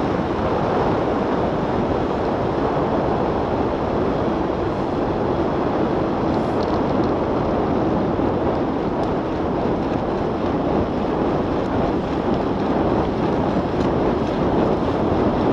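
Steady rushing noise of riding a bicycle in the rain, mostly wind on the microphone.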